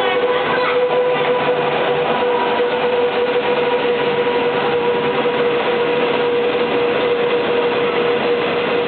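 Passenger train passing at close range: steady rail and wheel noise with a constant whine held throughout.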